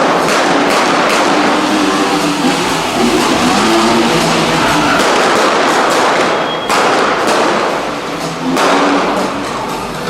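Stunt cars' engines running and revving, mixed with thuds.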